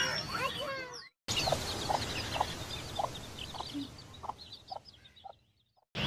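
Lovebirds chirping for about a second. After a cut, a bird gives a series of short, evenly spaced calls, about two a second, that fade away.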